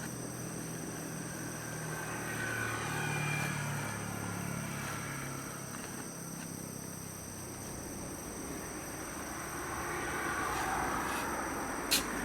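A motor vehicle's engine passes, its hum rising and then fading in the first half, with a second swell of road noise later. A steady high insect drone runs underneath, and there is one sharp click near the end.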